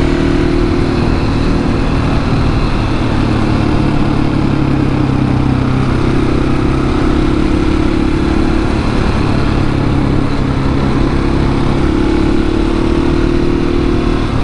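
701 motorcycle's single-cylinder engine running steadily at cruising speed, over a constant rush of wind noise. The engine note shifts slightly about six seconds in and again around ten seconds.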